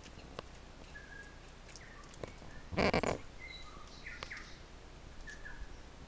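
Forest birds calling: scattered short chirps and whistled notes, with a brief, louder burst of noise about three seconds in.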